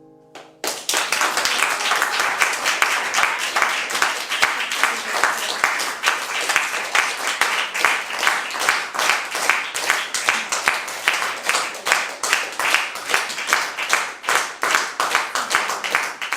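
Audience applauding, starting abruptly about half a second in as the last guitar chord dies away, and going on steadily.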